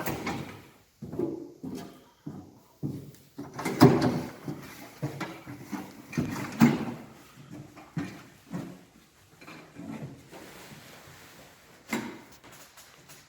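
Irregular handling noises of camouflage being fitted on an aluminium boat: short knocks, scrapes and rustles, loudest about four seconds in and again near seven.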